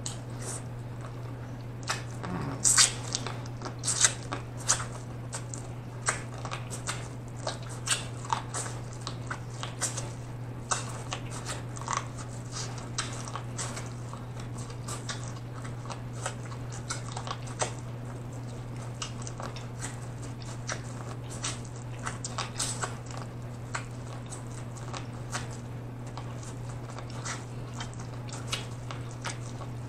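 Close-miked biting and chewing of corn on the cob: a run of crisp, wet crunches and mouth clicks, loudest and busiest in the first dozen seconds, then lighter and sparser.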